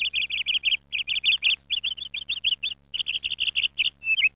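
A small bird chirping: quick runs of high chirps, several a second, in short phrases with brief pauses between them.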